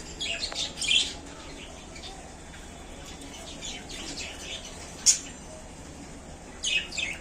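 Budgerigars chirping in short, high bursts: a cluster about a second in, a single sharp chirp near five seconds, and another cluster near the end.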